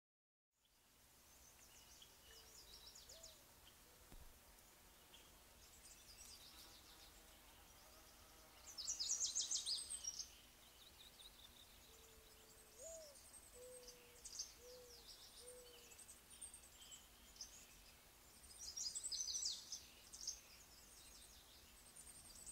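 Birds chirping outside, faint but loudest in two bouts, with a lower call of a few short notes in the middle, over a quiet room with a faint steady hum.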